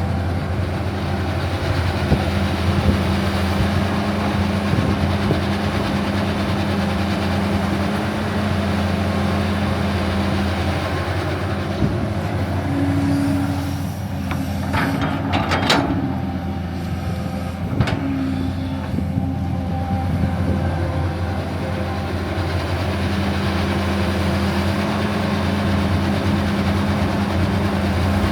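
Heavy machinery engine running with a steady low drone, with a few sharp clanks about halfway through.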